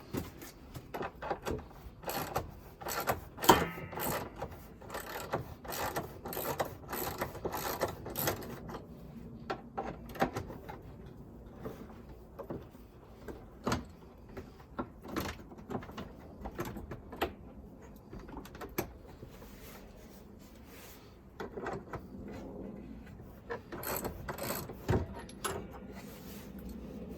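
Irregular metallic clicks, rattles and knocks of hand-tool work on gate hardware, in bursts: busy for the first several seconds, sparser in the middle, busy again near the end.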